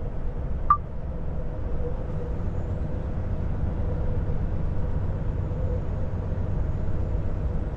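Volvo FH 500 truck's diesel engine and road noise, a steady low rumble while driving, with a faint steady hum. A single short sharp tick less than a second in.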